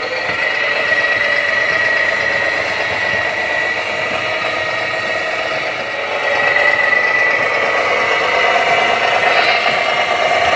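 Small electric motors and gearing of radio-controlled construction models whining steadily with a mechanical rattle; the whine grows stronger about six seconds in.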